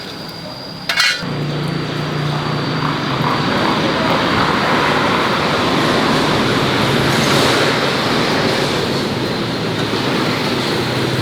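A pressure washer switches on with a click about a second in, then runs steadily, its motor humming under the hiss of the spray.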